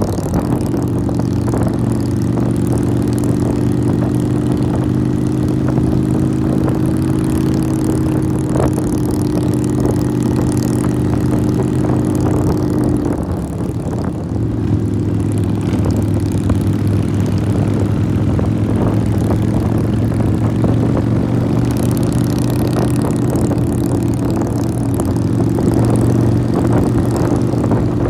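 Motorcycle engine running steadily under way, with a brief easing off about halfway through before it picks up again, and wind noise over the top.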